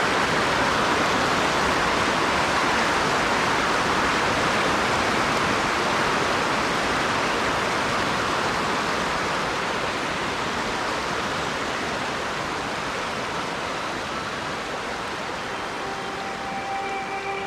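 Steady rushing of river water, an even hiss that slowly fades. Music with held notes comes in faintly near the end.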